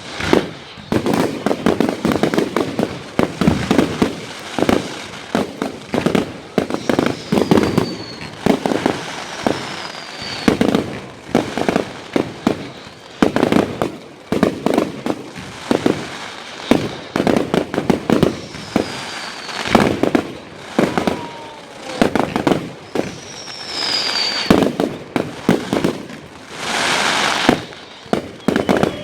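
Fireworks going off in quick succession: a dense run of bangs and crackling, with several falling whistles. A longer hissing rush comes near the end.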